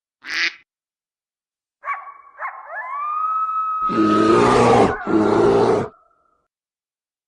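A large animal's call: a short blip, then a rising tone that is held for about two seconds, then two loud roars.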